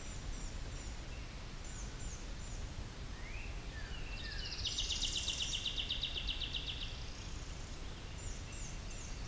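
Songbirds calling in woodland: groups of short high chirps near the start and again near the end, and a fast, buzzy trill lasting about two and a half seconds in the middle, over a low steady rumble.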